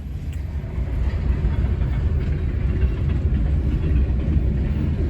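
Train rolling past, a steady low rumble of the cars on the rails that grows a little louder as the train picks up speed.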